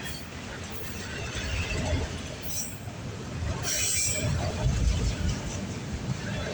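Freight train of autorack cars rolling past: a steady low rumble of steel wheels on rail, with faint wheel squeal and brief louder rushes about two and a half and four seconds in.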